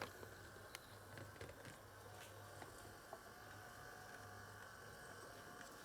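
Faint running of a HO scale NS 500/600 'Hippel' model locomotive: a low steady motor hum with a thin whine in the middle and a few light clicks, running smoothly.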